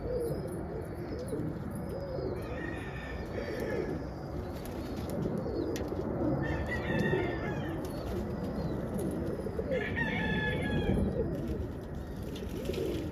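Domestic pigeons cooing in a loft, a low wavering coo throughout, while a rooster crows three times, about 2.5, 6.5 and 10 seconds in.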